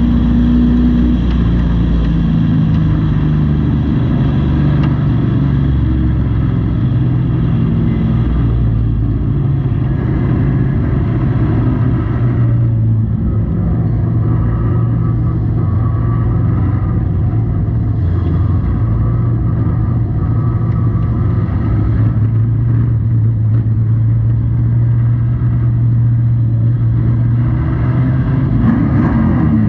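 Race truck engine running hard, heard from inside the cab, loud and continuous with its pitch dropping and rising as the driver lifts and gets back on the throttle, most clearly about twelve seconds in and again near the end.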